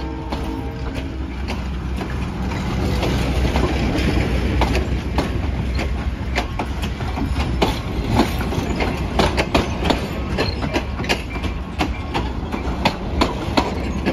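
Heritage passenger coaches rolling past close by: a steady rumble of steel wheels on rail, with a quick run of sharp clicks as the wheels cross rail joints, growing denser in the second half. A faint steady whine fades out in the first second or two.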